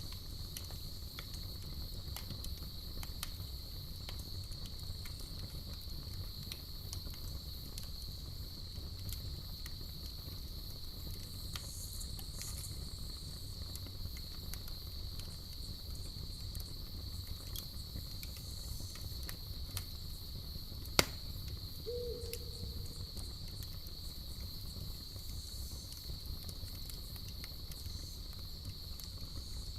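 Campfire crackling with scattered small pops over a low steady rumble, and one sharp, louder pop about two-thirds of the way through, followed by a brief low tone. Crickets chirp steadily throughout.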